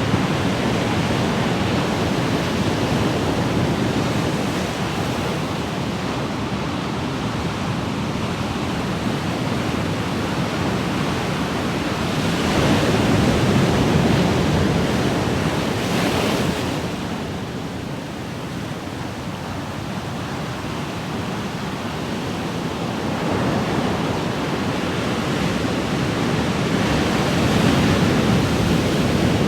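Ocean waves breaking and washing on shore, a continuous rushing that swells and eases slowly, with louder surges about twelve seconds in and near the end.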